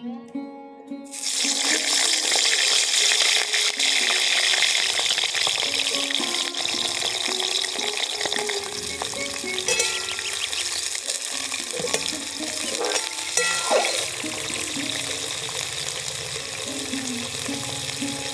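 Cauliflower florets frying in hot oil in an aluminium kadhai: a loud sizzle starts about a second in and slowly dies down, with a slotted spoon scraping the pan as they are stirred. Background music plays underneath.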